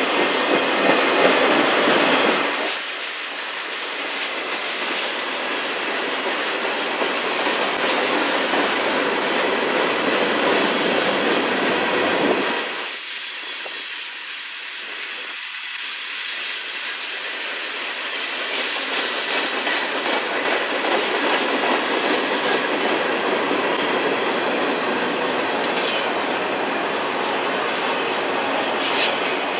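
Freight train cars (covered hoppers, a centerbeam flatcar, then autoracks) rolling past: a steady rumble and clatter of steel wheels on the rails, which drops in level twice.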